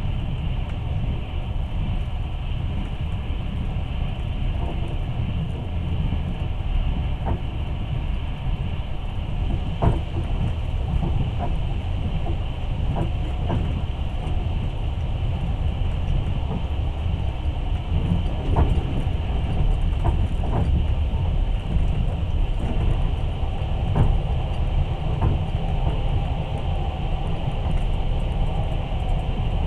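Passenger train carriage rolling along the track, heard from inside: a steady low rumble of the wheels with a few sharp knocks at irregular intervals.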